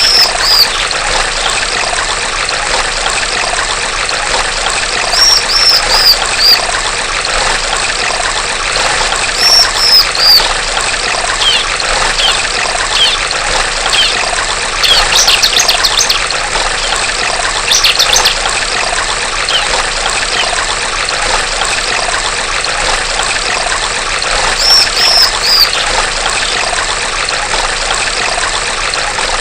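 Trickling stream water running steadily, with a female ciblek (prinia) calling: short series of three or four high, falling notes repeated every few seconds, and a stretch of quicker scattered chirps in the middle.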